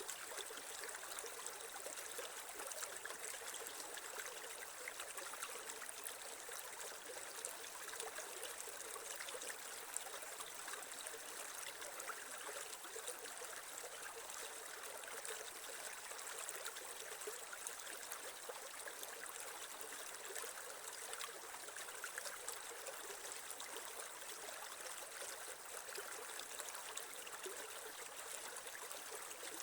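Creek water running and trickling over stones, a steady splashing babble.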